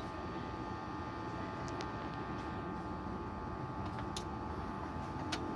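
Steady low electrical hum and hiss on a workbench, with a few faint small clicks.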